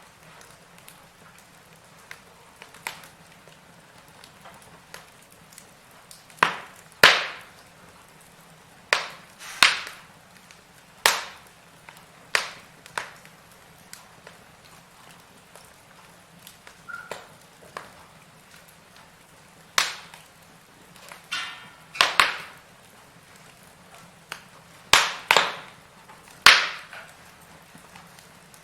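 Burning firewood crackling: irregular sharp pops and snaps, some in quick pairs, over a low steady hiss.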